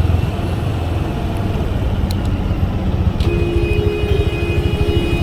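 Motorcycle engine running with a steady low rumble of fast, even pulses; about three seconds in, a steady whine joins it.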